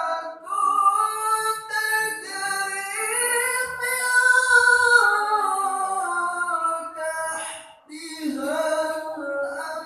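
A single voice reciting the Qur'an in the melodic tilawah style, high-pitched, drawing one long phrase out with ornamented rises and falls. It stops briefly for a breath about eight seconds in, then carries on.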